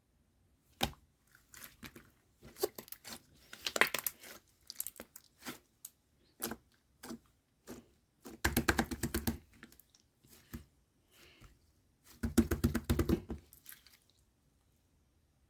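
Slime loaded with pearl beads being handled and squeezed: scattered sharp clicks and crackles, with two dense runs of rapid crackling about eight and twelve seconds in.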